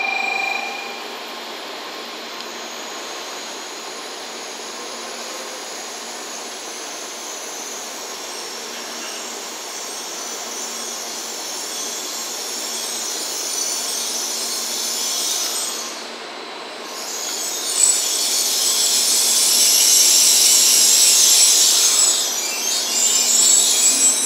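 N700S Shinkansen train coasting slowly into the platform: a steady hum and rolling hiss. About three-quarters of the way in it swells to a loud high hiss with a faint squeal as the cars pass close and the train brakes to a stop. A steady electronic tone cuts off about a second in.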